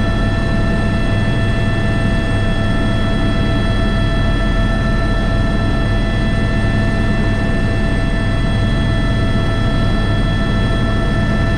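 Airbus H125 single-engine helicopter in flight, heard from the cockpit: a steady, high turbine and gearbox whine of several fixed tones over the low thrum of the rotor. The sound holds constant throughout.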